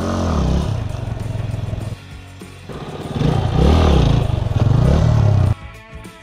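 Yamaha Serow 250's single-cylinder engine revved hard twice for front-wheel lifts, its pitch rising and falling, the second burst cutting off suddenly near the end. Background music plays underneath.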